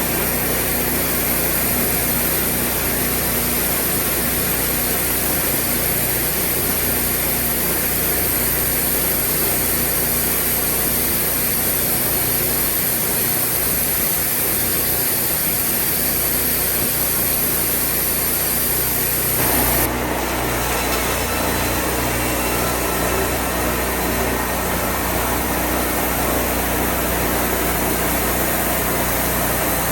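Wood-Mizer portable band sawmill running steadily: its engine drives the band saw blade, with the sound changing abruptly about two-thirds of the way through.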